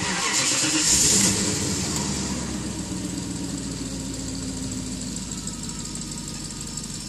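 BMW 740i engine just after starting, running at a raised idle that is loudest about a second in and then eases down steadily.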